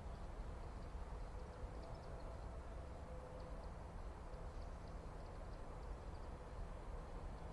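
Outdoor backyard ambience: a steady low rumble with faint, scattered high-pitched chips from small birds.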